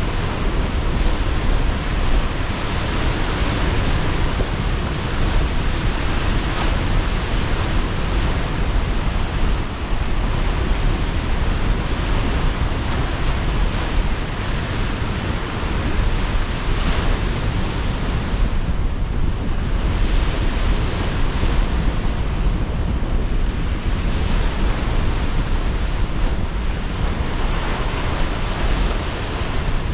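Sea surf breaking and washing in strong wind: a dense, steady rush with slow swells, heavy at the low end, wind buffeting the microphone.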